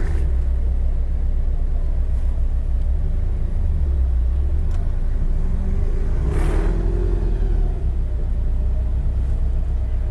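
Supercharged four-cylinder boxer engine idling with a steady low exhaust rumble, louder than stock after exhaust work. About six and a half seconds in, a brief rush of noise passes over it.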